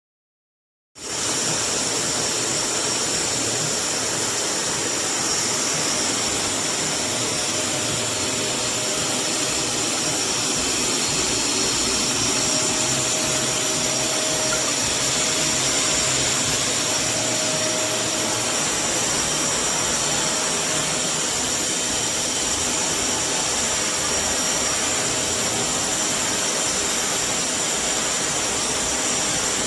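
Kärcher WD 6 wet-and-dry shop vacuum running steadily, with a rushing airflow and a high motor whine. The sound cuts in suddenly about a second in.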